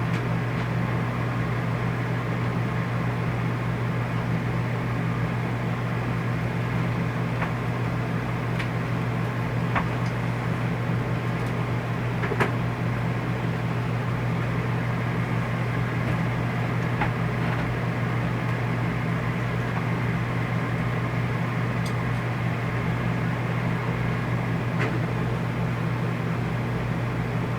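RV rooftop air conditioner fan running with a steady low hum and airflow rush. A few faint clicks sound over it.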